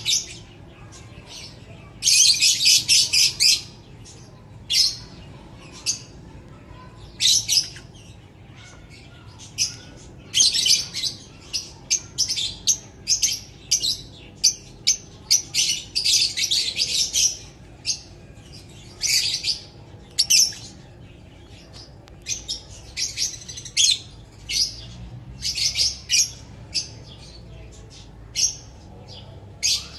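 Lovebirds chattering: rapid, high, sharp chirps in repeated runs, some lasting a second or two, with short pauses between.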